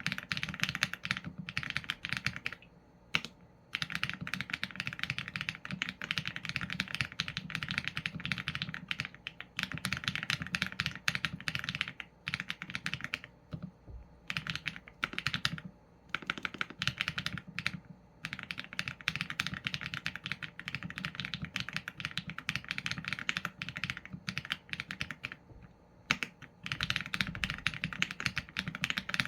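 Mechanical keyboard with Leobog Graywood v4 linear switches and PBT keycaps being typed on fast and steadily: dense runs of keystroke clacks broken by short pauses a few times.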